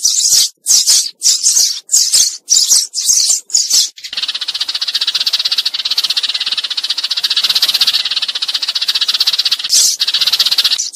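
Sparrow lure call: loud, high chirps about three a second, then from about four seconds in a continuous fast chatter, with the chirping coming back near the end. It is a flock-calling recording used to draw sparrows to a trap.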